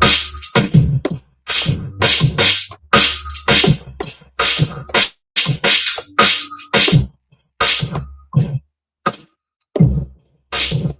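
Hip-hop drum sounds from a Maschine MK3 drum machine: sharp kick, snare and hi-hat hits in a choppy, stop-start pattern that thins out to scattered single hits with gaps in the last few seconds.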